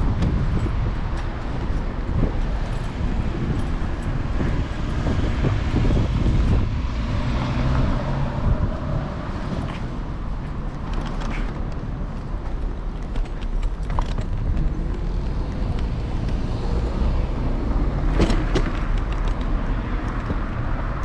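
City street traffic heard from a moving electric scooter: a steady low rumble of wind and road noise, with a few sharp clicks or knocks scattered through it.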